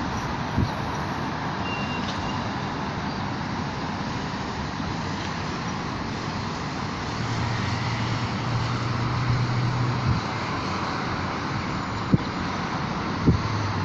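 Steady road traffic noise, a wash of tyre and engine sound, with one vehicle's engine hum standing out from about seven to ten seconds in and a few short knocks near the end.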